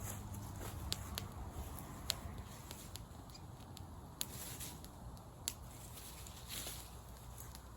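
Wood campfire crackling, with a few sharp, irregular pops and soft hisses.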